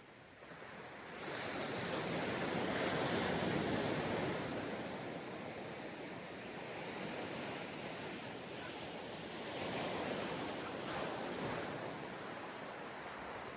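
Ocean waves breaking on a sandy beach, a wash of surf that swells about a second in, eases off, and rises again with the next wave about ten seconds in.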